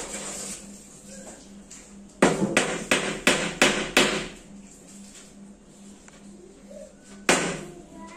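Hammer blows on wood: a quick run of about six strikes about two seconds in, and a single strike near the end.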